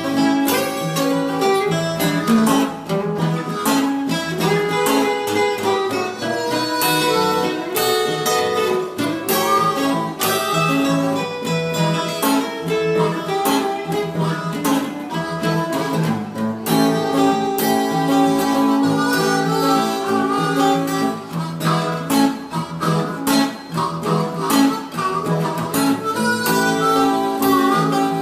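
Blues band playing an instrumental break with no singing: guitars keeping the rhythm while a harmonica carries the lead.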